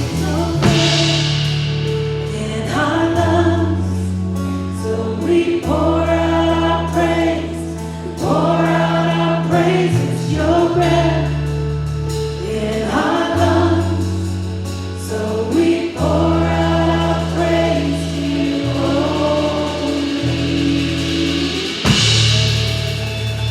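Live worship music: a group of voices singing a praise song over a band, with deep held bass notes that change every couple of seconds. A bright crash comes about a second in and again near the end.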